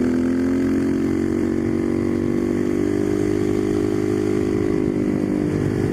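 Husqvarna 510SM supermoto's single-cylinder four-stroke engine idling steadily; its pitch rises a little in the first second, then holds.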